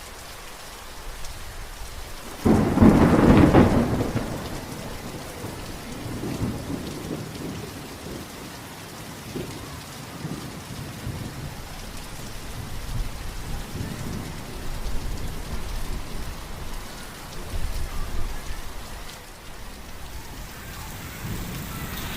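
Steady rain falling, with a loud clap of thunder about two and a half seconds in and weaker rumbles of thunder several times after.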